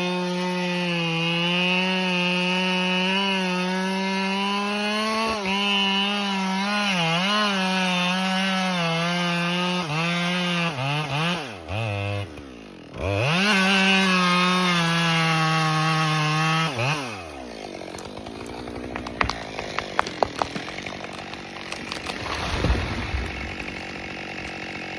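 A two-stroke chainsaw runs at full throttle while cutting into a large tree trunk. Its pitch wavers as the chain bogs in the wood, sags and picks up again about halfway through, then dies away a few seconds later. After that the sound is quieter, broken by a run of sharp cracks and snaps.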